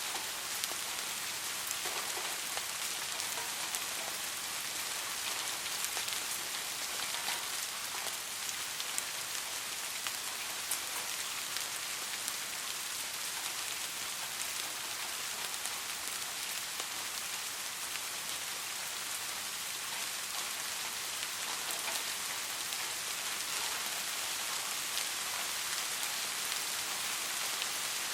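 Soft rain falling steadily: an even hiss with many small drops ticking through it.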